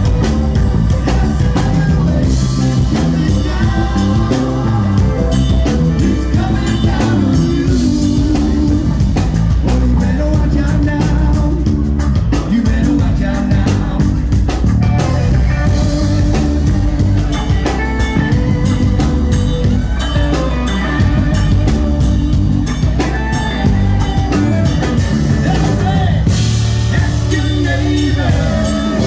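Rock band playing a song with a singer, drum kit and guitar, loud and steady throughout.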